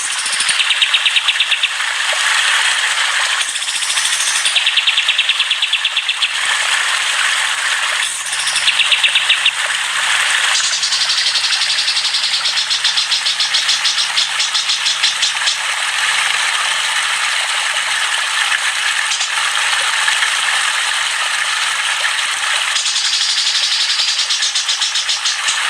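Chattering songbirds singing in a dense, high-pitched chorus, with loud rapid rattling trills repeating every few seconds in the first ten seconds and continuous fast chatter after that.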